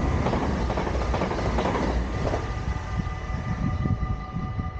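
Dutch NS passenger train passing over a level crossing, a loud rush of wheel and air noise that fades after about two and a half seconds. Over it the crossing's warning bells ring steadily, stopping near the end.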